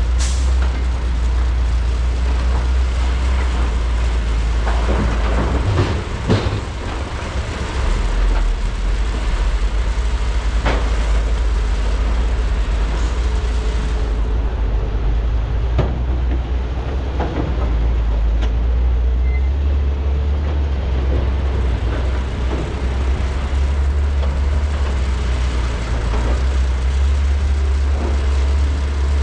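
Large diesel hydraulic excavators running under load, a steady deep engine rumble, with scattered clanks and knocks from bucket and loading work.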